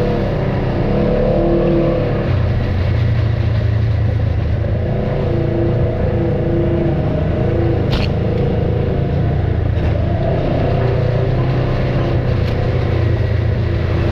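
Off-road vehicle engine running steadily at low speed on the trail, its pitch rising and falling a little with the throttle. A single sharp click about eight seconds in.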